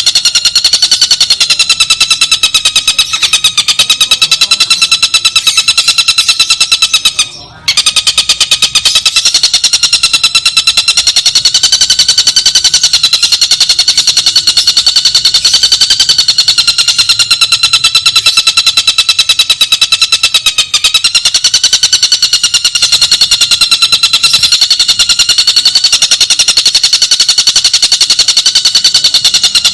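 Recorded tengkek buto (kingfisher) call playing on a loop: a continuous, very fast, high-pitched trill that wavers slightly in pitch. It breaks off briefly about seven seconds in.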